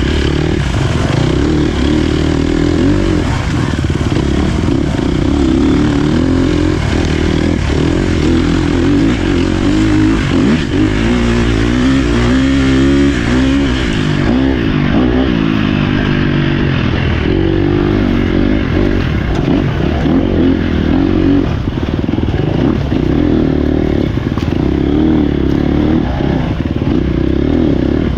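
Dirt bike engine running hard over a trail ride, its pitch rising and falling continually with the throttle.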